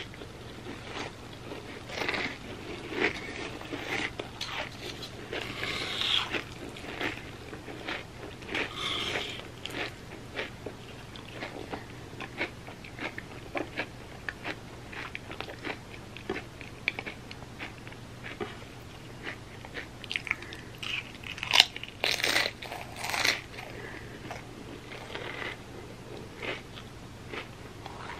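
A person chewing and biting crunchy chips loaded with a soft pimento cheese dip: a long run of sharp, uneven crunches and wet mouth sounds, loudest in a cluster about three quarters of the way through.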